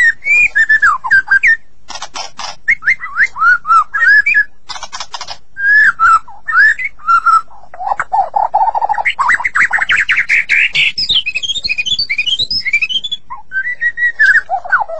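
White-rumped shama (murai batu) singing loudly: a varied song of clear whistled phrases sliding up and down, mixed with harsh rattling bursts. About nine seconds in comes a fast run of notes rising in pitch, then quick whistles.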